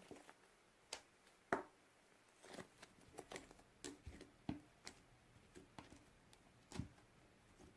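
Slime being handled: faint, irregular small clicks, pops and squishes, the loudest about one and a half seconds in.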